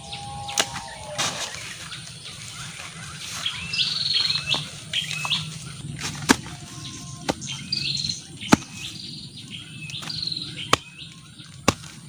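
A bird sings repeated short phrases of chirps. About seven sharp knocks fall irregularly as a small hand tool digs into soil, and two of them, near the middle, are the loudest sounds.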